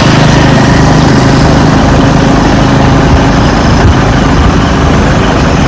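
Airliner jet engines running: a loud, steady rush of noise with a low hum that fades early on.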